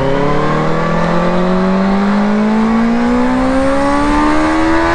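Benelli 600i's inline-four engine pulling hard under acceleration, its pitch climbing steadily as the revs rise through a single gear.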